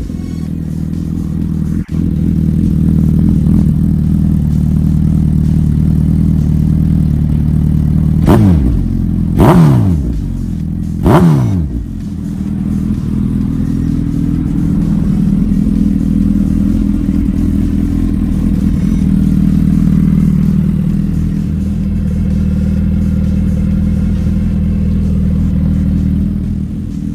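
2019 Suzuki Hayabusa's 1340 cc inline-four running through a Brock's 4-into-1 performance exhaust, idling steadily. Three quick throttle blips come about eight, nine and a half and eleven seconds in, each revving up and falling straight back to idle.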